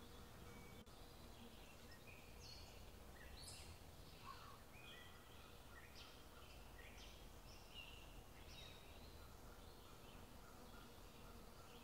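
Faint birdsong: several birds giving short chirping notes again and again over a low, steady background rumble of outdoor ambience.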